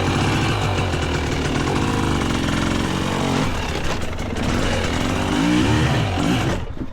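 Two-stroke dirt bike engine running under throttle on the trail, revving up and down, with a rise in pitch about five and a half seconds in. The sound drops away suddenly near the end.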